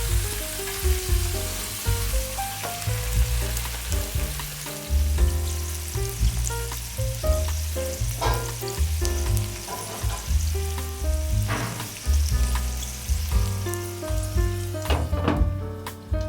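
Food sizzling as it fries in a little olive oil in a pan: a steady crackling hiss, over background music with a pulsing bass line.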